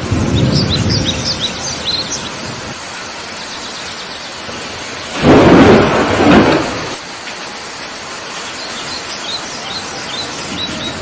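Heavy rain falling steadily under thunder: a rumble dies away over the first couple of seconds, then a loud thunderclap breaks about five seconds in and rolls for about two seconds. Birds chirp in quick short notes near the start and again near the end.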